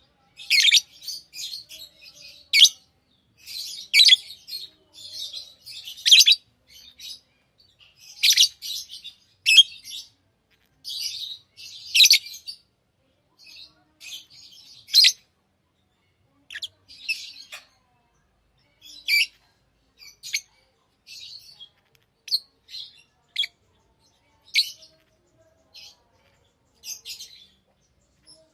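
Pet lovebirds chirping, a run of short, shrill, high-pitched calls. The calls come thick and fast for the first half, then more sparsely with short gaps.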